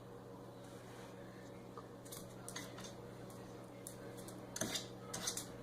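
Light clicks and clinks of small hard objects, scattered at first and bunching together near the end, over a steady low hum.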